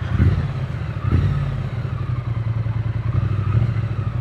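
Triumph Speed Twin 900's parallel-twin engine running steadily under way at a low, even note, with a dull thud near the start and another about a second in.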